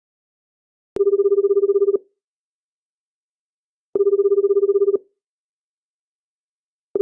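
Telephone ringing: two trilling electronic rings, each about a second long and about three seconds apart, with a third ring starting at the very end as a call to 911 waits to be answered.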